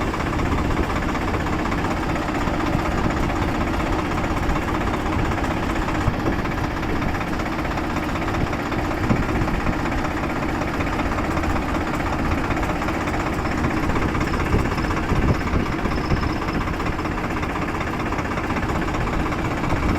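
Swaraj 744 tractor's diesel engine running steadily.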